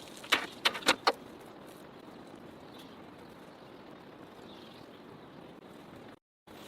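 Steady rain falling, with four sharp knocks or clicks close together in the first second.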